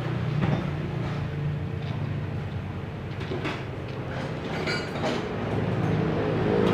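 A steady engine drone with a few short metallic clicks over it.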